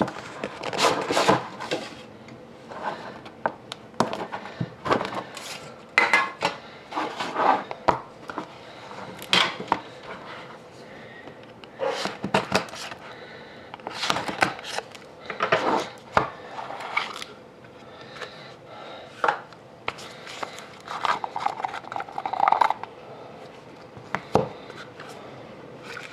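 Handling and opening a metal trading-card tin: irregular clinks, clacks and scrapes of the metal box and lid, with some rustling.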